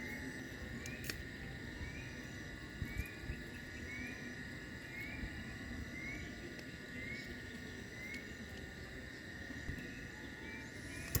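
Night insects calling: a steady high-pitched drone with a short rising chirp repeating about every three-quarters of a second. A few faint clicks come through, the sharpest near the end.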